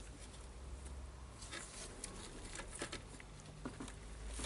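Faint, scattered small clicks and scrapes of hands handling the radio's volume potentiometer and on/off switch, trying to unplug its wiring, over a low steady hum.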